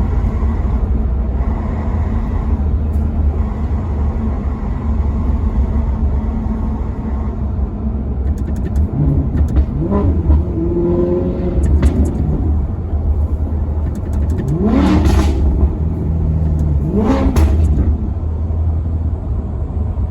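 Maserati Quattroporte Sport GT's V8 engine running with a deep, steady rumble, its revs sweeping up and back down about halfway through and twice more near the end.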